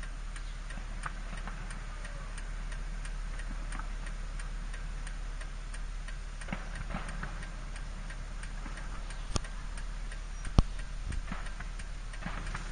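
Steady low rumble of a vehicle, with a light regular ticking over it and a couple of sharp pops in the second half.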